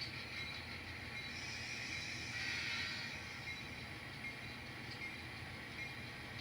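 N scale model train (CSX switcher locomotives with cars) running slowly along the track: a steady low hum with light wheel-on-rail noise, which swells briefly about two seconds in.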